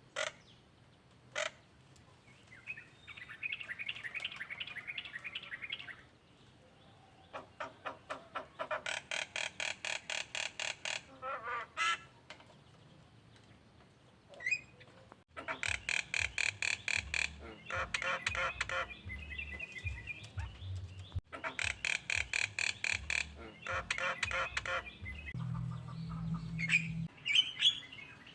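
Songbird singing a varied song: several bursts of a few seconds each, made of rapid trills of about eight to ten notes a second, mixed with harsh chattering phrases and short gaps between the bursts.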